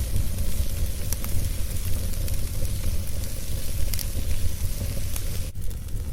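Wood fire burning steadily with a low rumble and hiss, and a few sharp crackles and pops from the wood.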